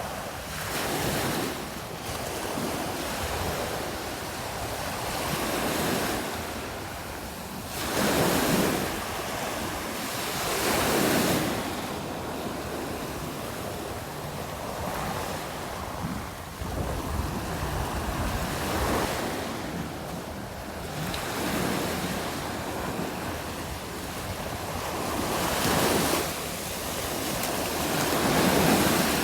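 Waves breaking on a beach, the surf swelling and washing back every few seconds, with wind buffeting the microphone.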